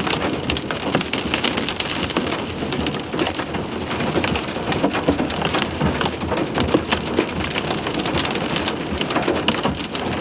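Hailstones and heavy rain pounding on a vehicle, a dense, irregular clatter of hard hits on the roof and windshield heard from inside the cabin.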